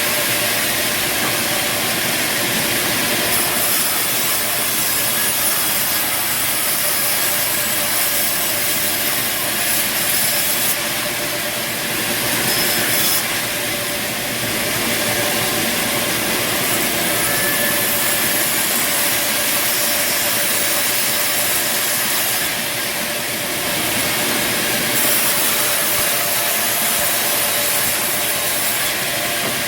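Band sawmill running and sawing timber: a steady, loud cutting noise over the machine's drive, the high hiss of the cut swelling and easing a few times.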